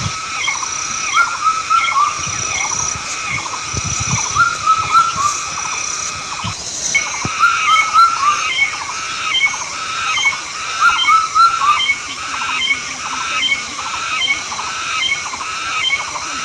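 Short, high-pitched animal calls repeated rapidly, about two or three a second, with a thin steady high tone coming and going behind them in the first half.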